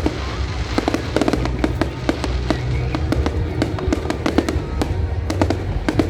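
Fireworks bursting in quick, irregular succession, sharp bangs and crackles over a low rumble, with music playing alongside.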